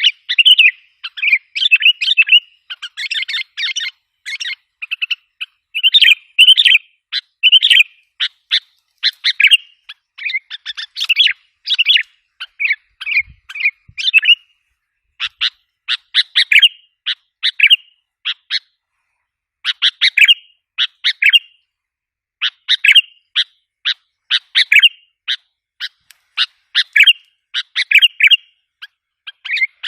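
Sooty-headed bulbul (kutilang) calls played as a lure sound: short chirping phrases repeated in quick bursts with brief pauses.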